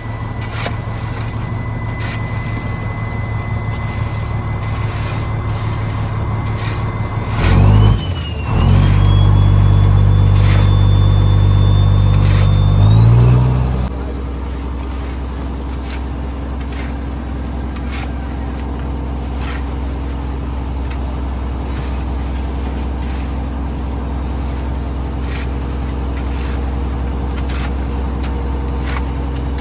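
Fishing trawler's engine and deck machinery running steadily. Just after the first quarter it turns louder and deeper for about five seconds, then settles again with a high whine that rises in pitch.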